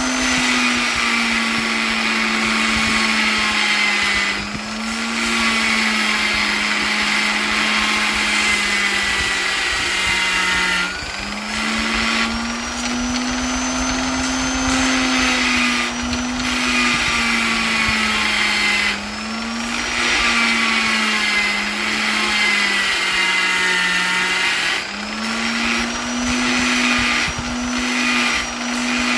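Electric polisher's motor running continuously, a steady whine that wavers slightly up and down in pitch, with brief dips in level a few times.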